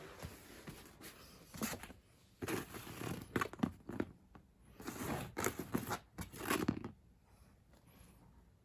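Several bursts of rustling, tearing-like handling noise, in three main spells with quiet gaps between.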